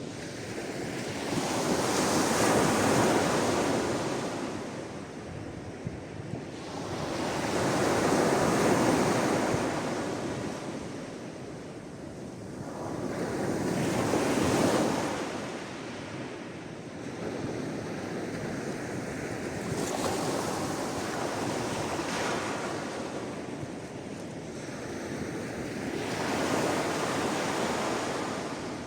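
Sea waves breaking and washing in, one surge about every six seconds, each swelling up and then fading back to a lower hiss.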